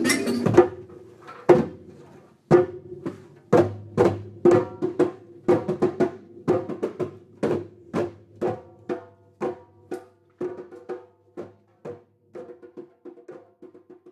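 Percussion music for kalimbas and djembes: a full ensemble sound cuts off about half a second in, then single sharp strikes with a ringing tone come about once a second, quicken to two or three a second and grow fainter near the end.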